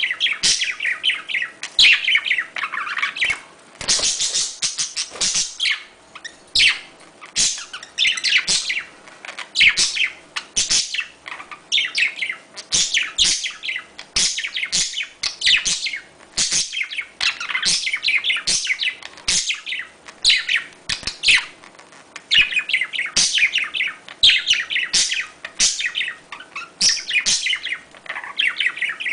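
Budgerigars chattering and warbling without a break: quick chirps run into one another, with sharp clicks here and there. This is the courtship chatter the uploader offers as a budgie mating call.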